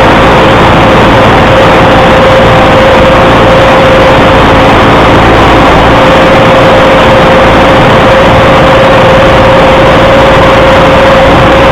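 Fordson Super Major's four-cylinder diesel engine running steadily, loud and close, with a steady whine over the engine note.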